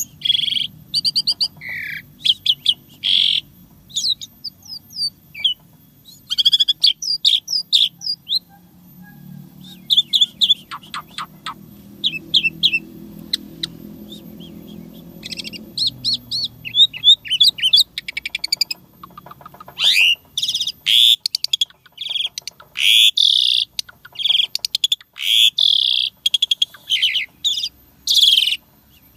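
Asian pied starling (jalak suren) singing a long, varied song of loud whistles, chirps and quick rapid-fire phrases, with short pauses between bursts; the song is full of learned 'isian' phrases.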